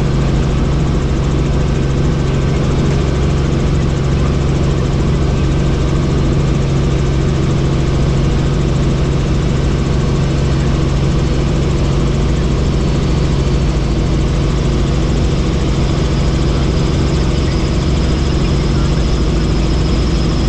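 Helicopter in flight: a steady, loud drone of engine and rotor with a constant low hum. A faint high whine comes in during the last few seconds.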